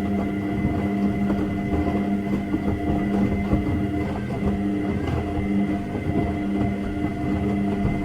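Washing machine running: a steady motor hum with several fixed tones over a low churning rumble.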